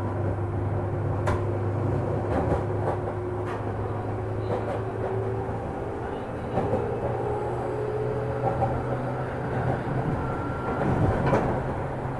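Running sound inside a JR 205 series electric train's motor car, which has externally fan-cooled traction motors: a steady motor and gear hum whose tones drift slowly upward around the middle. The wheels click over rail joints several times in the first few seconds and again, louder, near the end.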